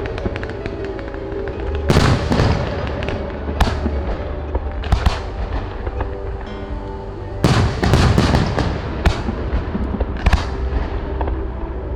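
Aerial fireworks bursting: sharp bangs every second or two, with a cluster of several near the end and crackling between them. Music with sustained tones plays underneath.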